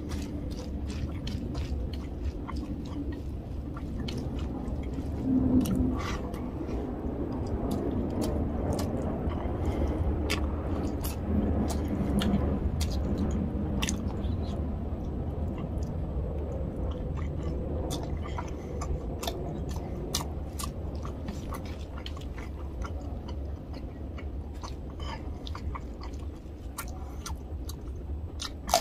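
Close-miked wet chewing of a mouthful of rice and tilapia fish curry eaten by hand, with many small sharp mouth clicks and smacks throughout. There are louder bites or smacks about five and a half and eleven seconds in.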